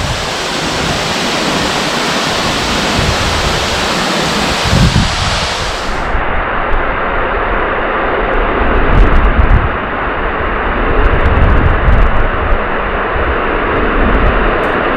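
Steady rushing of water, surf or falling water, with gusts of wind buffeting the microphone in low rumbles several times.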